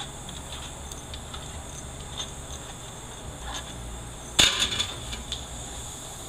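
Small metal parts and hand tools clicking as they are handled during a transmission teardown, with one sharp metallic clank about four and a half seconds in, over a steady low hum.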